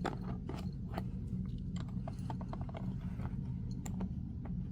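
Light, irregular clicks and taps of small board-game pieces being moved about on a cardboard game board, a few per second, over a steady low hum.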